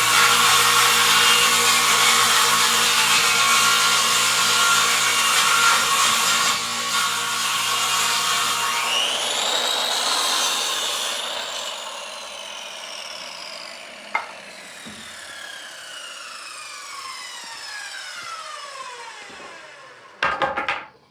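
Table saw ripping a 2x4 lengthwise, loud, for about the first nine seconds; then the blade winds down after switch-off, its whine falling steadily in pitch for about ten seconds. A brief loud knock-like burst comes near the end.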